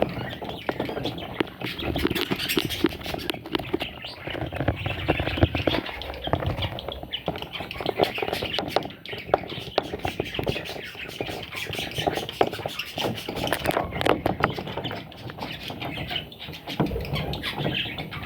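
Budgerigar chicks squawking and chirping without pause, mixed with many short scratching clicks.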